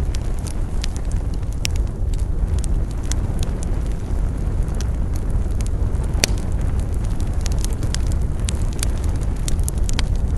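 Wood fire burning: a steady low rumble of flames with frequent irregular crackles and pops, one sharper pop about six seconds in.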